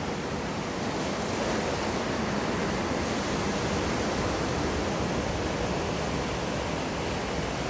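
Steady rushing of water from breaking waves in a surf wave pool.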